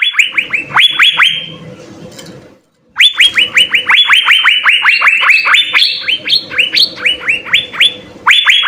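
Asian fairy-bluebird (cucak biru) singing loudly in fast runs of downward-slurred whistles, about six or seven notes a second. There is a brief pause after the first couple of seconds, then a long run, then a short break and a fresh run near the end.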